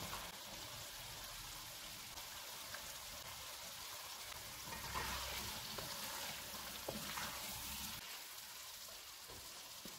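Chicken and capsicum curry sizzling faintly in a nonstick wok as a spatula stirs it, with a few soft spatula taps about seven seconds in.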